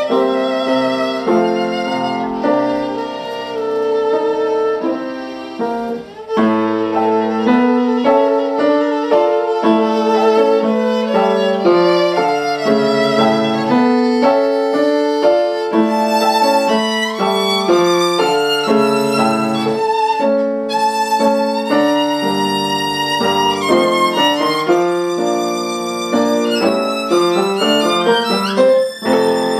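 Solo violin playing a classical melody, held notes wavering with vibrato, with a brief drop in level about six seconds in.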